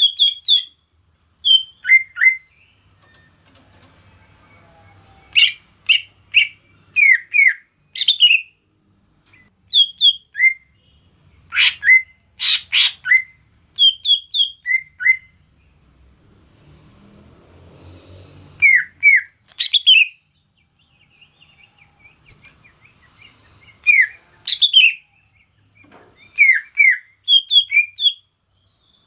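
Green leafbird (cucak ijo) singing: bursts of two to four quick, sharp whistled chirps repeated every second or two, with a few louder sweeping notes midway, over a steady high hiss.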